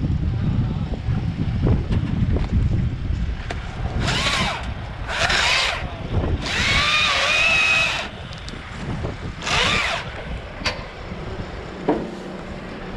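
Wind buffeting the microphone, then four short bursts of a Stihl MSA 161 T battery top-handle chainsaw cutting wood, the longest about a second and a half. The saw's whine wavers in pitch as the chain bites.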